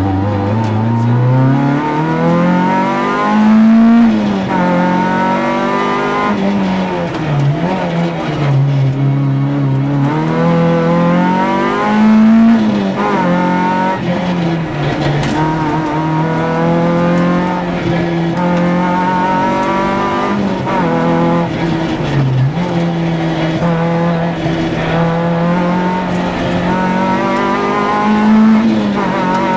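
Peugeot 106 Group A rally car engine heard from inside the cockpit, driven hard: the revs climb in pitch over and over and fall back each time, as it shifts up and slows for corners.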